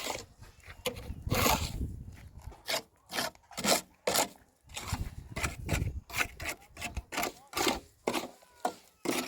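Repeated rough scraping strokes, uneven, about two a second.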